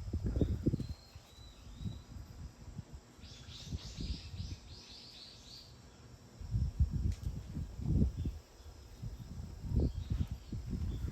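A small bird singing a quick run of about eight high notes, each falling in pitch, a few seconds in. Low rumbling noise comes and goes around it, at the start and again in the second half.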